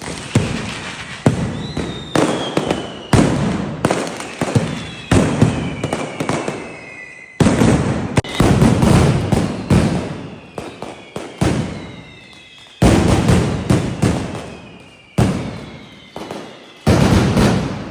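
Fireworks and firecrackers going off in rapid, continuous volleys of loud bangs, with whistling fireworks gliding down in pitch among them.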